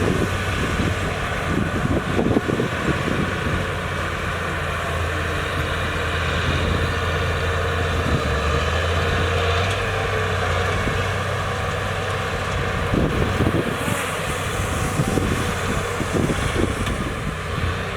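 Heavy diesel machinery engine running steadily, with scattered knocks and clanks near the start and again near the end.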